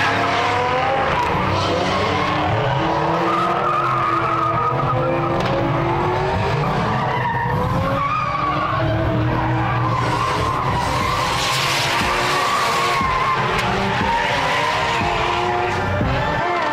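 Drift cars on track, engines revving up and down as they slide, with tyres squealing and skidding. The tyre noise swells about two thirds of the way through.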